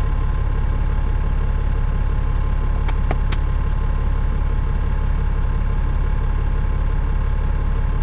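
Caterpillar 3406E inline-six diesel of a Freightliner FLD120 running at a steady idle, heard from inside the cab. Two or three short clicks sound about three seconds in.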